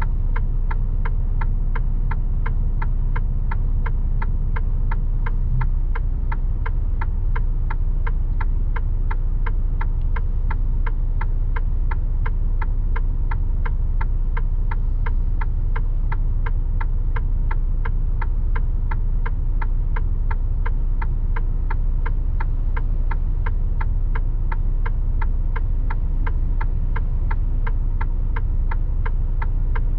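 Turn-signal indicator ticking steadily, about two ticks a second, over the low steady hum of a Mercedes Actros truck's diesel engine, heard inside the cab.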